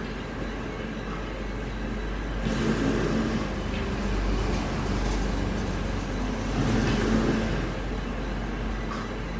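Heavy machinery running steadily with a low hum, swelling louder twice, about two and a half and six and a half seconds in.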